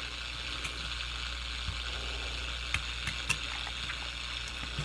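Grundig FR-200 world band radio hissing with static from its speaker while tuned to AM, a few faint clicks and crackles in the hiss.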